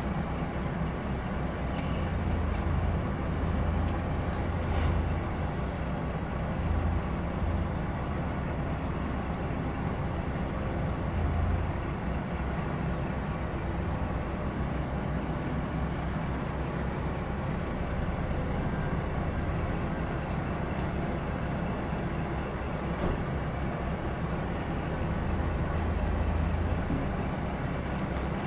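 Heavy diesel engines of a tractor and a truck running steadily, with small swells in the low rumble now and then.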